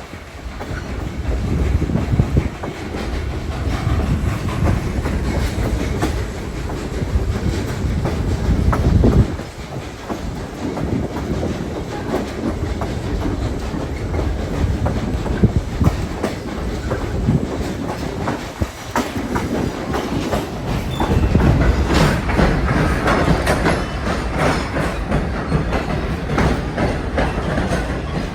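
Steam-hauled passenger train running along the track: a continuous rumble with wheels clicking over the rail joints. It eases off about nine seconds in and grows louder again near the end.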